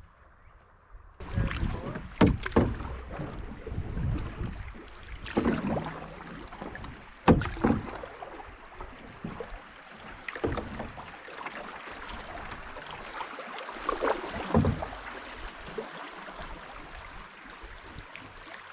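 A canoe being paddled: irregular paddle splashes and knocks over a steady wash of noise, starting about a second in.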